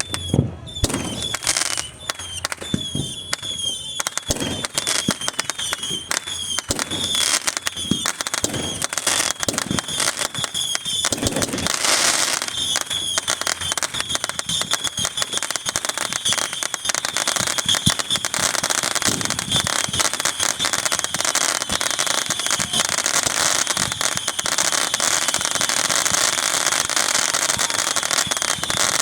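Fireworks going off: a few sharp bangs, then from about four seconds in a dense, continuous crackle of many small reports, with short high squeals repeating through it.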